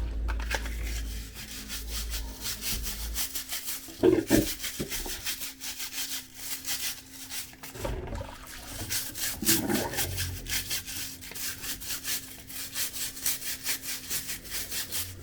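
A brush scrubbing the inside of a plastic dishwasher filter part in quick back-and-forth strokes, several a second. There is a louder knock about four seconds in, and a low rumble that fades out in the first few seconds.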